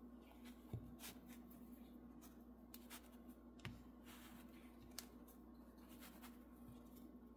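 Near silence: a few faint taps and light rustles of handling over a steady low hum.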